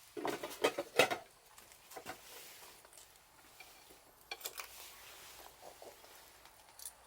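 Dishes and utensils clattering as they are handled and set down: a quick run of knocks and clinks in the first second or so, then a few scattered clicks.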